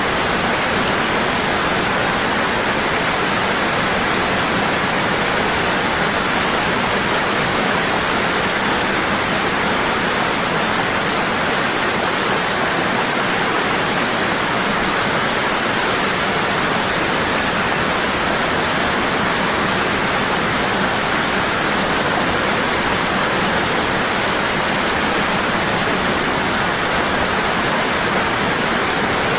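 Waterfall falling strong and constant, a steady rushing of water that does not change.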